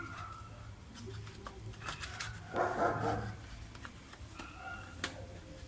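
A pet dog whining in thin high tones, with a louder rough bark-like outburst about halfway through, over scattered ticks and rustles of material being handled.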